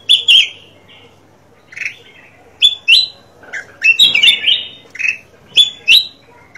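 Kutilang emas (golden bulbul) calling: a string of short, bright, bending chirps in ones and twos with short pauses, bunching into a quick flurry about four seconds in.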